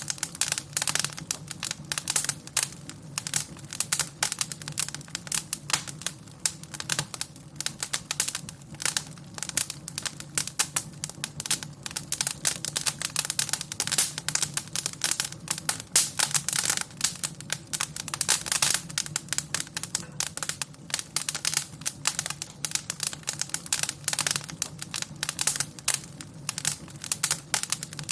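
Wood fire in a fireplace crackling and popping with many irregular snaps, over a steady low hum.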